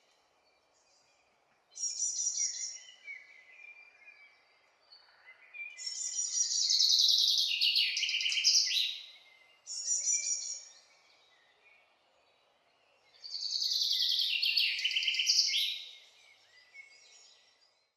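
A songbird singing in separate phrases: short high phrases about a second long alternate with longer, more complex songs lasting three or four seconds, with pauses between them.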